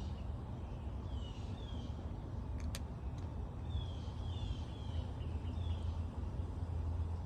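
Birds chirping: short, high, downward-sliding chirps repeated in small groups over a steady low rumble, with one sharp click about three seconds in.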